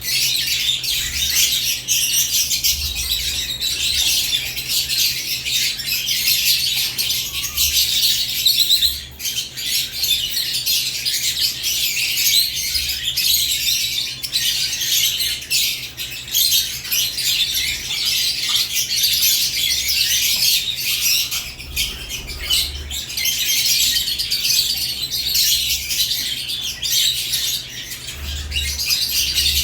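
A flock of lovebirds chattering with dense, continuous high-pitched chirps and squawks, with bursts of wing flapping.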